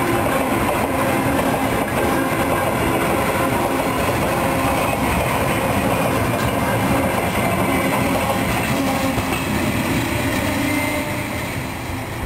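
Freight train rolling past on the rails, a steady loud rumble of wagons that eases off near the end.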